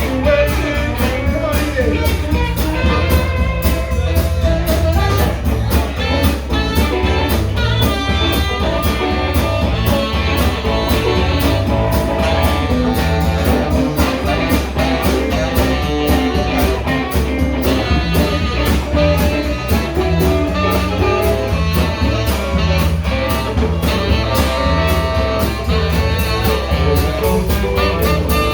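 Band playing an instrumental stretch: guitar over bass and drums with a steady beat, in a bluesy style.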